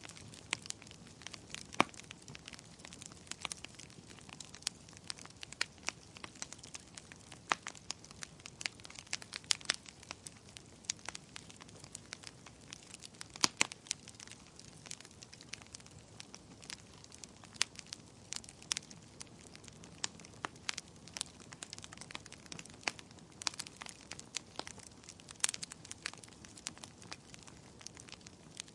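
Bonfire crackling: irregular sharp pops and snaps, a few louder than the rest, over a steady soft hiss.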